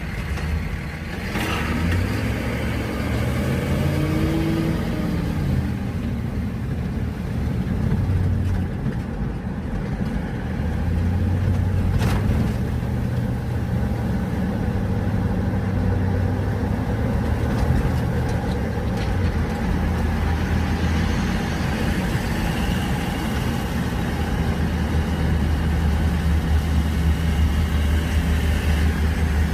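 Car engine and tyre noise from inside a moving car: the engine pitch rises and falls a few times a few seconds in, then settles into a steady low drone, with a couple of brief clicks.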